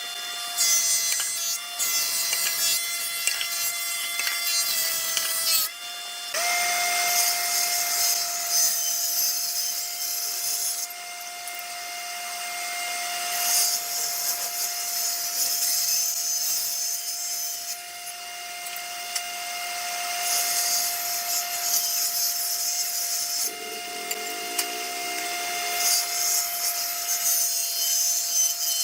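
Electric power tool running with a steady whine, its motor dropping out briefly and picking up again about six seconds in. Over the whine comes a hiss that swells in repeated passes as the tool works into wood.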